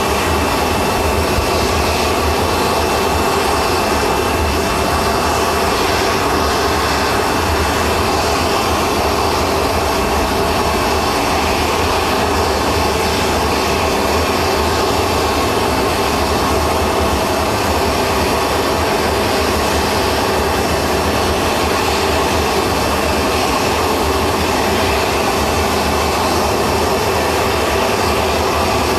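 Jet aircraft engine noise, running steadily and loud without change, with a faint high steady tone in the first few seconds.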